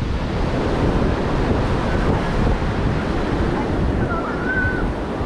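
Ocean surf washing onto a beach, with wind buffeting the microphone. A faint wavering high call is heard about four seconds in.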